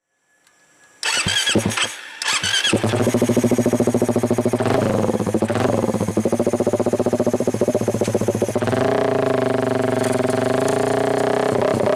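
Suzuki Satria FU injection's 150 cc single-cylinder engine, running through a Tetenk Muffler PRO-MP full racing exhaust, being electric-started. About a second in the starter whines briefly, then the engine catches and idles loudly with a fast, even pulse, with one quick blip of the throttle about five seconds in.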